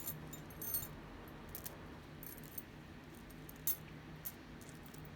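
Costume-jewelry bracelets clinking and jingling as they are handled and sorted, a scattered run of light, sharp clicks with a couple of louder clinks.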